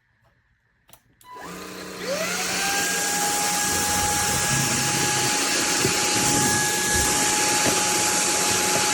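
CAMIY cordless stick vacuum cleaner switched on after a second of quiet: its motor spins up with a rising whine, then runs steadily with a high whine and a hiss of airflow.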